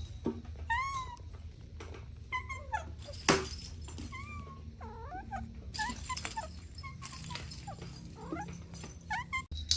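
Kittens mewing: a string of short, high calls that bend up and down in pitch, one or two a second, with a single sharp knock about three seconds in.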